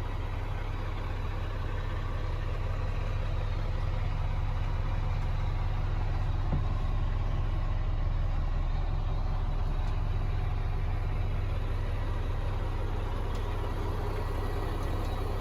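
Diesel engine of a Peterbilt 579 semi truck running steadily, heard from inside the cab as a deep, even hum.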